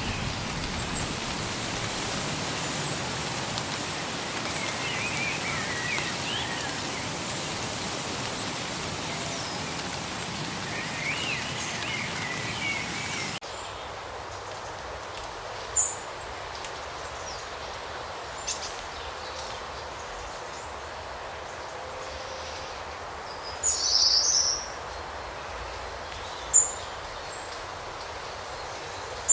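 Wild birds chirping over a steady hiss of background noise. About halfway through the hiss drops away abruptly, and a handful of short, high chirps stand out, one of them a brief twittering run.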